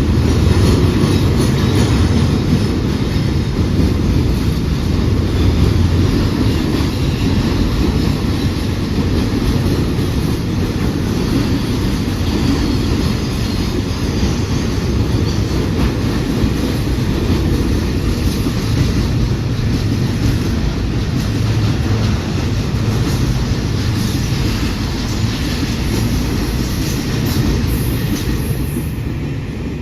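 Train running past on the rails: a loud, steady rumble of wheels with clickety-clack over the rail joints, easing slightly near the end.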